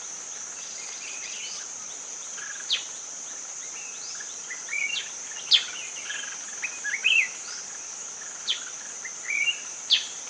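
Rainforest ambience: a steady high-pitched insect drone with birds calling over it. About four sharp, quick downward-sliding whistles are spread through it, along with short bursts of warbled chirping.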